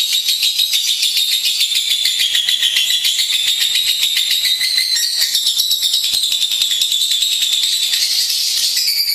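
Lovebird singing: a long, unbroken run of rapid, high-pitched chattering notes.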